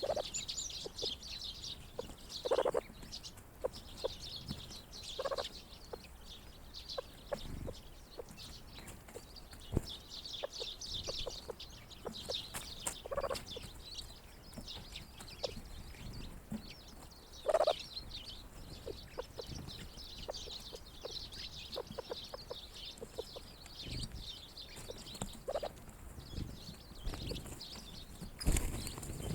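Grey partridges giving short, low clucking calls every few seconds over the continuous high twittering of a flock of small winter birds. A dull thump near the end.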